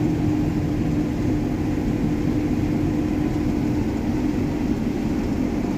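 John Deere S680 combine running steadily while harvesting, a constant machine drone with a strong low steady hum.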